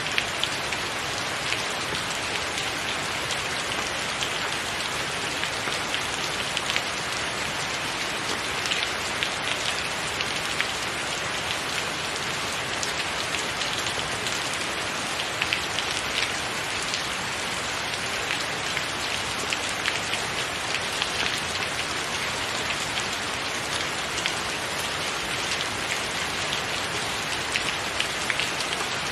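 Steady rain: an even hiss with many sharp ticks of single drops striking a surface.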